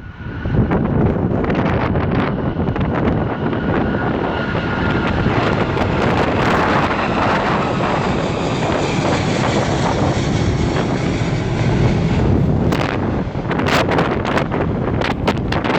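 Boeing 777-200ER's jet engines at takeoff thrust: a loud, steady rumble with a faint whine above it. Heavy wind buffets the microphone, crackling in the last few seconds.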